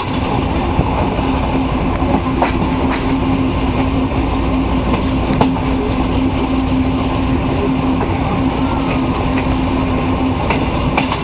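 Passenger train running steadily along the line, heard from a carriage window: a continuous rumble with a steady hum, and a few sharp clacks as the wheels cross rail joints.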